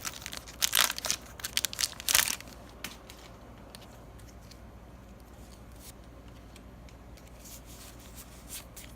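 A foil booster pack wrapper being torn open, with a quick run of rips and crinkles over the first two seconds or so, then only faint handling noises.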